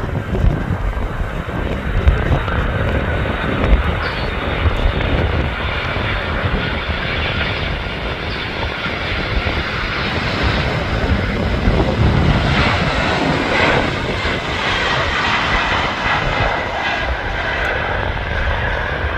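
Jet airliner engines making a steady rushing roar that fills out in the second half. Strong wind buffets the microphone with a gusty low rumble in the first half.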